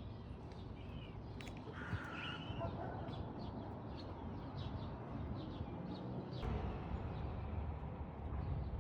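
Birds calling: short high chirps throughout, with a louder harsh call about two seconds in. A low rumble comes up at about six and a half seconds.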